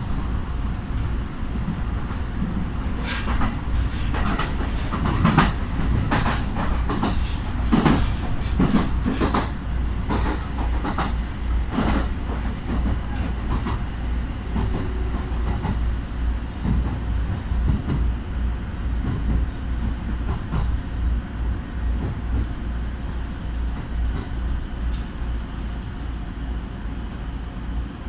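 JR East Uchibō Line train running along the track, with a steady low rumble. Between about three and twelve seconds in comes a run of sharp wheel clacks over rail joints, then the ride smooths out.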